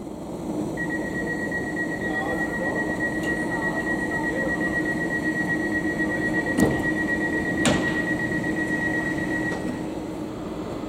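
Railway train sound: a steady rumble with a steady high-pitched tone held for about nine seconds, and two sharp clicks about a second apart past the middle.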